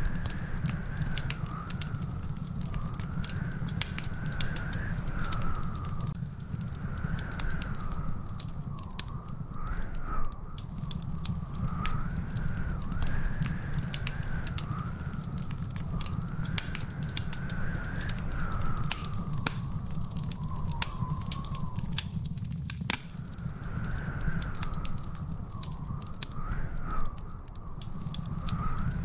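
Wood fire in a fireplace crackling and popping steadily over a low rumble, with a wavering whistle-like tone that slowly rises and falls.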